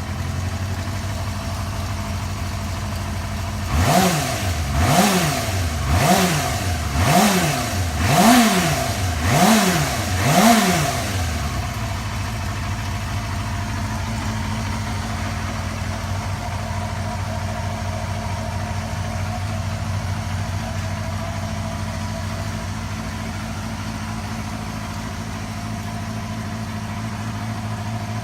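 Yamaha FZR250's freshly started 250 cc inline-four engine idling, then blipped on the throttle seven times about once a second, each rev rising and falling quickly, before settling back to a steady idle.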